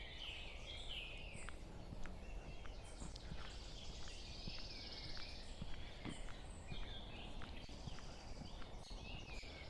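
Small birds chirping and twittering around, several short calls at a time, over the soft steady crunch of footsteps, about two a second, on a path. A low steady rumble runs underneath.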